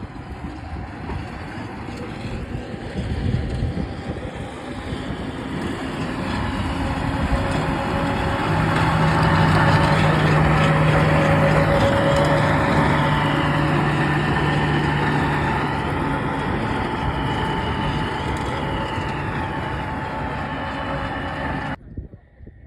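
Snowdon Mountain Railway rack-railway train running with a steady engine hum. It grows louder towards the middle and then slowly fades, as when it passes by.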